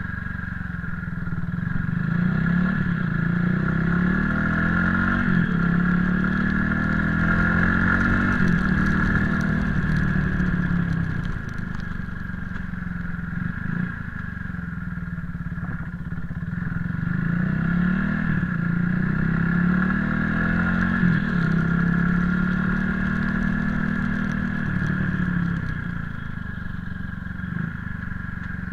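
Motorcycle engine while riding, the revs climbing in steps through gear changes and easing off again, twice.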